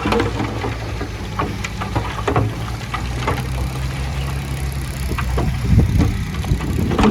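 Diesel engine of heavy earthmoving machinery running steadily, with scattered short knocks and clatters over it and a louder swell near the end.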